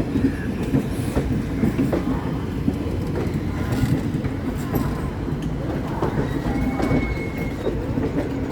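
Train wheels rolling over the rail joints: a steady rumble with a repeated clickety-clack about once a second. A brief high whine comes about seven seconds in.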